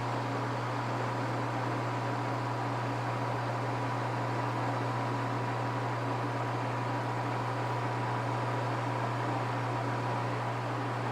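Metal lathe running steadily, a constant motor hum with a thin whine and hiss over it.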